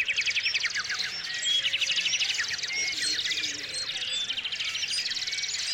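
Several small songbirds chirping and singing at once: rapid trills of quick repeated notes overlapping with short, high whistled chirps.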